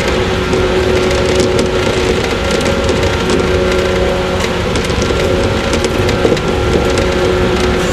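Running sound inside a 115-series electric train's motor car (KuMoHa 115-318): a steady hum from the traction motors and gears at running speed, with clicks and clatter from the wheels on the rails.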